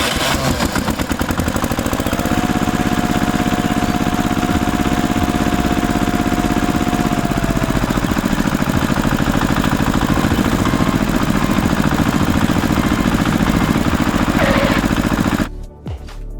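A small engine, most likely the mini tractor's, running steadily with a fast, even pulse. It cuts off abruptly about a second before the end.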